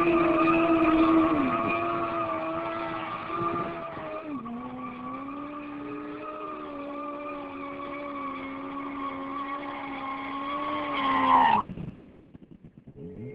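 Motorcycle engine held at high, steady revs, its pitch dropping a step about four seconds in, then cut off sharply near the end.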